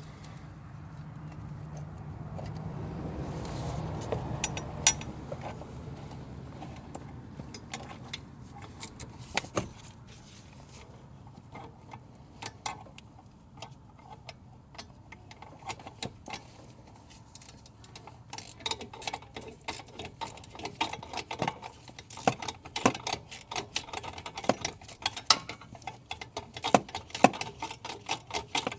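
Hand ratchet on a universal joint clicking as a tight bolt is worked by hand, with metal tools clinking; the clicks come scattered at first and turn into quick, dense runs in the second half. A low rumble swells and fades in the first few seconds.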